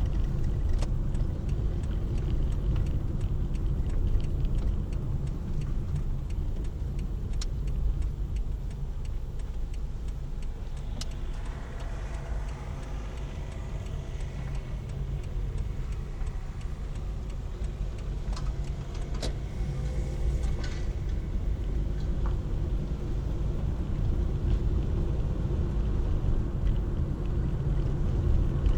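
Road and engine noise inside a moving car: a steady low rumble that eases a little in the middle, with a few light clicks.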